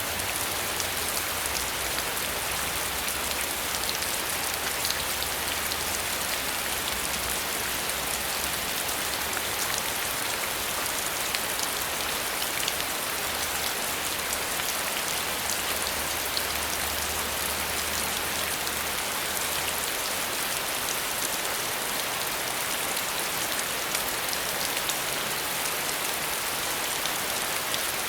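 Steady rain falling, an even hiss with fine scattered drop patters throughout.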